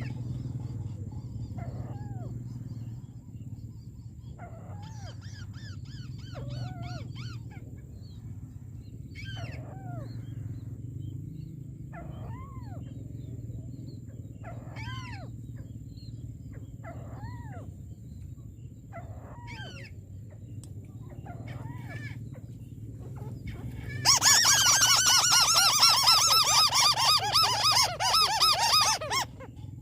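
White-browed crake calls: single short rising-and-falling notes repeated every two to three seconds, then a loud, harsh chattering series lasting about five seconds near the end.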